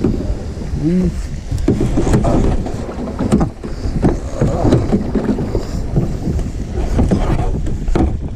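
Kayak paddling: a paddle splashing and knocking against the plastic hull at uneven intervals, over a steady low rumble.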